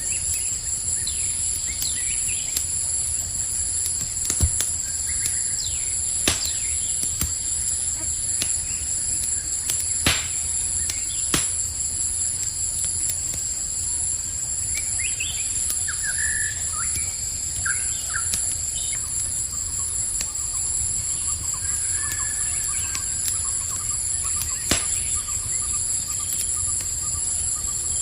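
Campfire crackling with a handful of sharp pops, over a steady high-pitched chorus of crickets; a few short bird chirps come in the middle.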